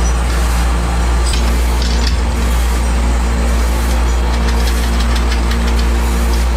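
Workshop machinery running with a steady low hum, with a few light clinks of metal parts being handled.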